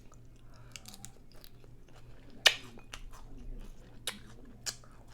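Close-miked chewing and biting of a crunchy hard taco boat shell, a run of crackly crunches. The sharpest crunch comes about two and a half seconds in, with two smaller ones later.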